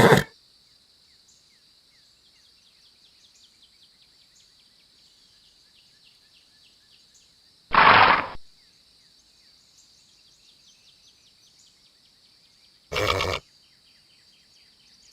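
A horse blowing two short blasts of breath, the louder one about halfway through and a shorter one near the end, over a faint steady high-pitched hiss with fine ticking.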